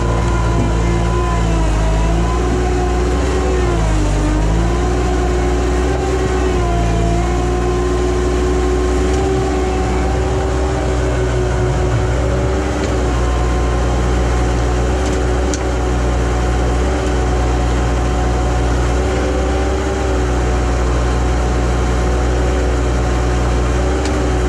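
Bobcat tracked skid steer's diesel engine running steadily at high throttle, its pitch dipping briefly three times in the first seven seconds as the hydraulics take load, then holding steady.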